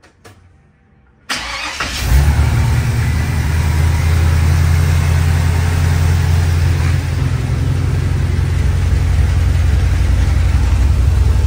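GM Performance crate 350 small-block V8 cranked over about a second in, catching within a second and settling into a steady fast idle from a cold start. The engine is running rich, which the owner calls hella gassy.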